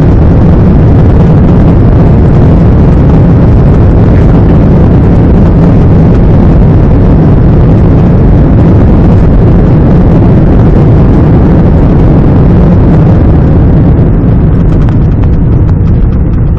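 Airbus A320 on its landing run: a very loud, steady roar with a heavy rumble, easing off near the end.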